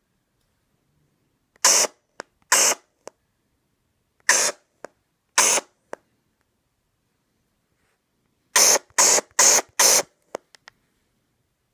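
An iPad making short bursts of hissing static: four spaced a second or more apart, then four in quick succession, about two a second, with faint clicks between and silence in the gaps. It is an unexplained fault noise from the tablet.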